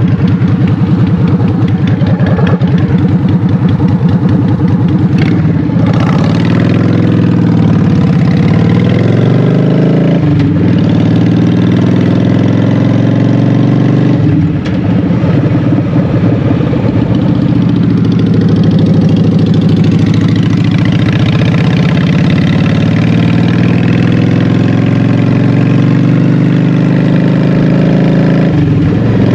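Honda Shadow 750's V-twin engine running through Vance & Hines Short Shots exhaust pipes while riding, its engine speed dipping and climbing again a few times, with brief breaks in the pull about a third of the way and halfway through.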